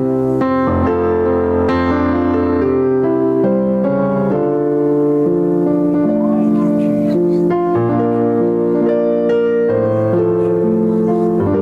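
Keyboard or electric piano playing slow, sustained chords that change every second or two.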